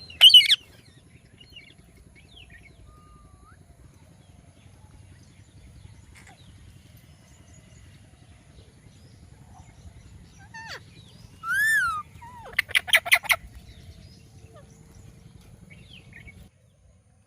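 Indian ringneck parakeet calling: a sharp squawk at the start and a few faint chirps, then about twelve seconds in a drawn-out call followed by a quick run of short harsh squawks.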